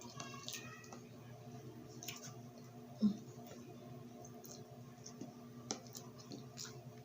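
A person eating: scattered small wet mouth clicks and chewing noises, with a short closed-mouth hum about three seconds in, over a faint steady low hum.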